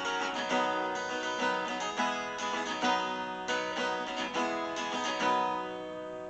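Acoustic guitar music, a run of plucked and strummed chords, ending on a chord left to ring out near the end.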